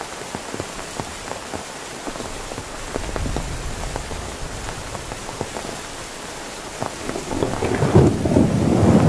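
Heavy rain pattering steadily on a surface, with single drops striking close by. A roll of thunder swells in about seven seconds in and is loudest near the end.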